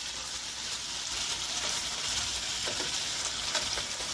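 Potato cubes frying in oil in a nonstick pan with a steady sizzle, stirred with a slotted spatula that scrapes and clicks lightly now and then.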